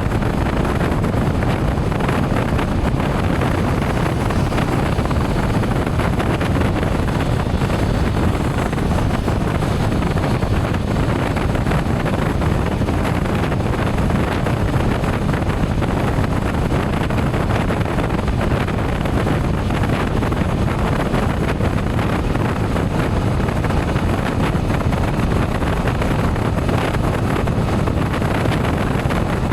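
Steady wind rush on the microphone of a moving motorcycle, with the bike's running and road noise mixed in underneath.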